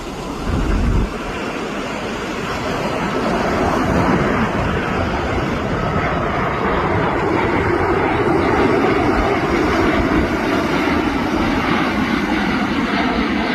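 Light piston-engined propeller aircraft running, growing louder over the first few seconds and then holding steady. Wind buffets the microphone briefly about half a second in.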